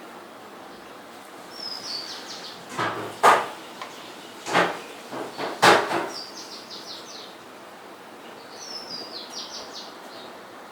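A bird's short chirping phrase, a note and then a quick falling run, repeated several times over a steady hiss. In the middle come four or five short, loud scraping strokes.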